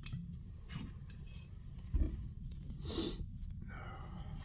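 Soft handling sounds: a dull thump about two seconds in, then a brief scraping rustle about a second later, over a low steady rumble.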